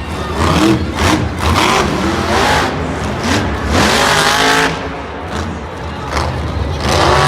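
Monster truck engine revving hard several times, the pitch climbing and dropping with each rev.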